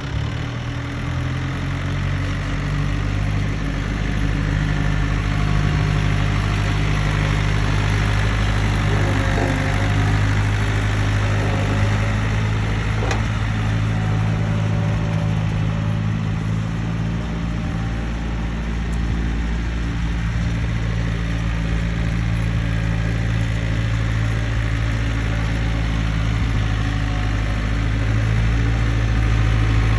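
John Deere 970 compact tractor's Yanmar diesel engine running steadily at a constant speed, a little louder near the end.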